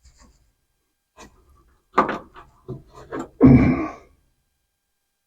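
Scattered knocks and clicks of hand work on the truck's old wiring and fuse panel, with a sharper knock about two seconds in and a louder, longer clunk and scrape about three and a half seconds in.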